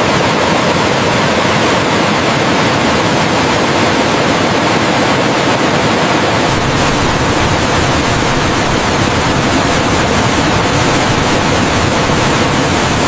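Waterfall rushing: a loud, steady wash of falling water, with a deeper rumble joining about six seconds in.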